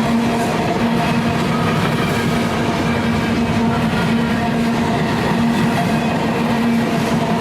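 A freight train rolling past close by: a steady, loud rumble of railcars on the rails with a constant hum underneath and no horn.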